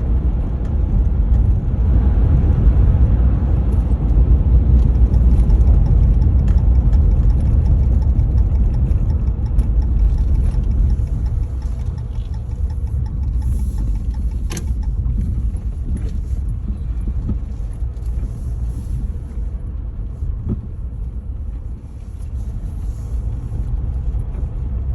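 Low, steady rumble of a 2014 Ram 1500 EcoDiesel pickup on the road, heard from inside the cab. It eases off about halfway through, and a single click comes near the middle.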